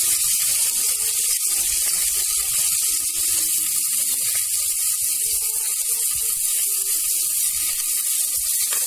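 Sliced onions sizzling steadily in hot oil in a pressure cooker, stirred with a metal spatula that scrapes the pan now and then.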